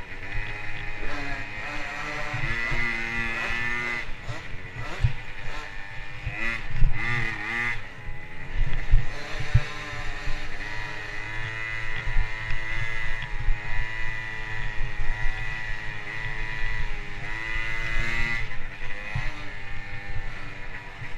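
Motocross motorcycle engine revving, its pitch climbing and dropping several times as it accelerates and eases off, over a low rumble with scattered knocks.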